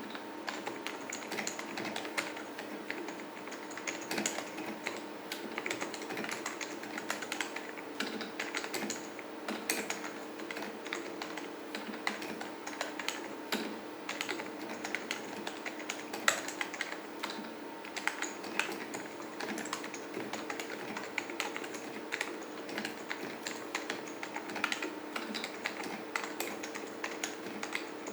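Typing on a KBParadise V60 mini keyboard with oil-lubed Matias silent linear Alps-clone switches: a steady, irregular stream of soft, quiet keystrokes.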